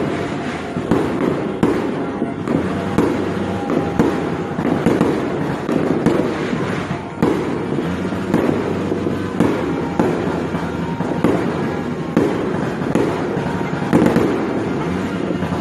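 Many fireworks exploding in quick succession: a near-continuous run of bangs and crackles, with aerial shells bursting overhead.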